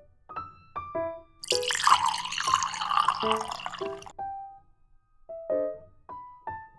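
Soft piano music playing. About a second and a half in, water runs for a couple of seconds and then stops abruptly.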